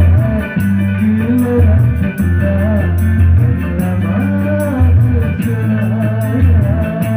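Loud music played through a PA sound system being checked: a heavy bass line, a steady beat and a melody line over it.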